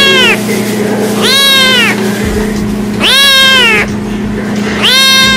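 Kitten meowing loudly and repeatedly, one drawn-out meow about every one and a half to two seconds, each rising slightly then falling in pitch at its end.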